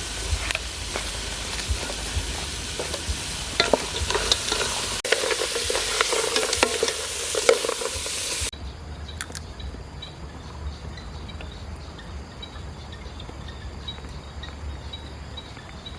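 Food sizzling as it fries in a pan, with the clicks and scrapes of a utensil stirring it. About eight seconds in the sizzling cuts off abruptly, leaving a quieter steady background with a few faint ticks.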